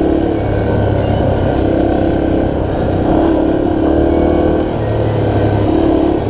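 Dirt bike engine running under way, its note dipping and rising a few times as the throttle changes.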